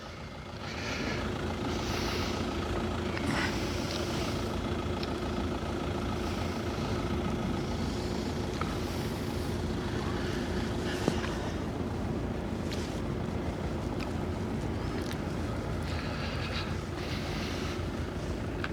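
Steady low engine drone with a constant hum, with scattered short rustles and a few faint clicks over it.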